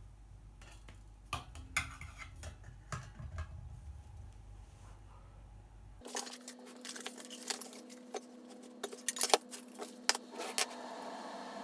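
Metal camp cookware and gear being handled: a string of clinks, taps and knocks, the sharpest a little after nine seconds in. A faint steady hum appears from about six seconds in.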